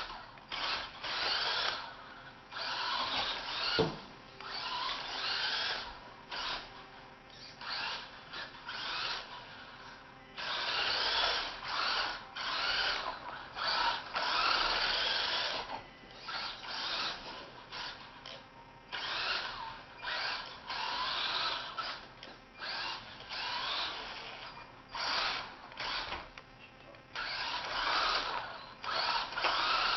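Brushed electric motor and geartrain of a 4WD RC truck whining in repeated throttle bursts, some short blips and some held for two or three seconds. There is a single knock about four seconds in.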